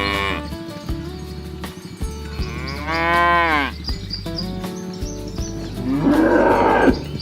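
Cattle mooing in a herd. The tail of one moo ends right at the start, a full moo rises and falls about two and a half seconds in, and a hoarser, rougher moo comes near the end.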